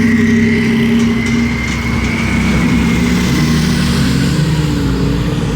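Car engines running at low revs, with the engine note steady at first and then wavering up and down from about three seconds in, and a thin high whine above it.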